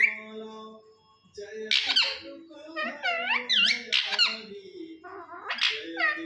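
Pet parrot giving shrill, squeaky calls in about four quick bursts, each a run of sharp up-and-down pitch sweeps, over faint steady low tones.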